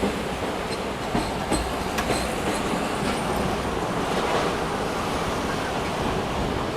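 Passenger train running on the line: a steady rumble of coach wheels on the track, with a few sharp clicks over rail joints between about one and two seconds in and a faint high wheel squeal.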